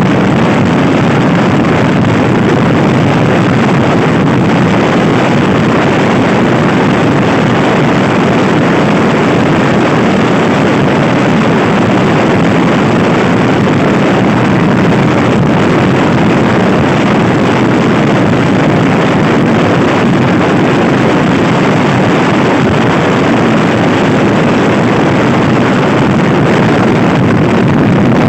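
Loud, steady wind rushing over the microphone of a Honda Scoopy-i scooter ridden at speed, with the motor running underneath.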